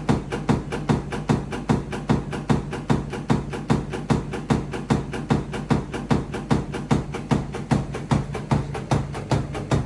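Samsung washing machine banging loudly during a cycle: rapid, evenly spaced knocks several times a second, with heavier thumps about twice a second, over a steady low motor hum.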